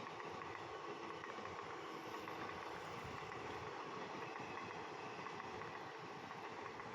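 Steady running noise of a train, an even mechanical din that holds level throughout.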